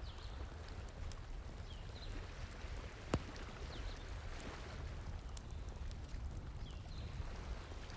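Campfire crackling, with a few sharp pops, the loudest about three seconds in, over the steady rush of a flowing stream.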